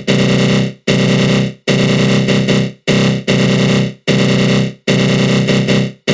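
Synthesized attack-growl sound effect, a flanged synth buzz. It comes in repeated bursts of about a second or less, each cut off by a brief silence.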